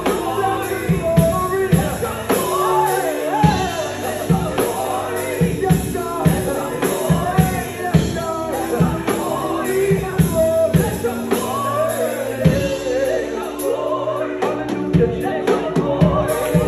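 Live gospel music: a voice singing a melody over a band, with a steady drum beat.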